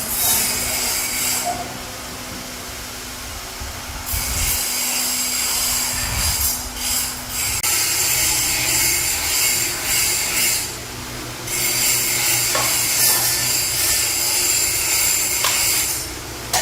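Workshop tool work: a rasping hiss that runs in stretches of a few seconds with short pauses between.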